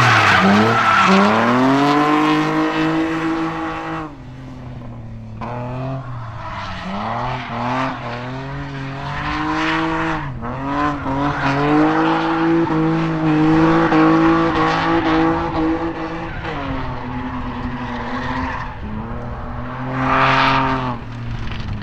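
Drift car engine revving hard and falling back with quick throttle changes as the car slides, tyres squealing. Loudest at the start, quieter about four seconds in, with a short loud burst near the end.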